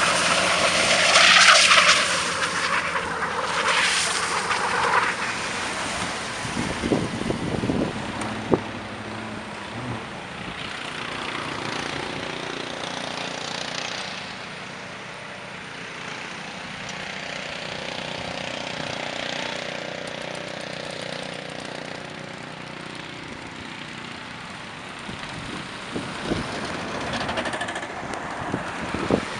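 Vehicle and wind noise on a snowy road: a steady rush of road and wind noise, with louder swells in the first few seconds and a few knocks about seven to eight seconds in.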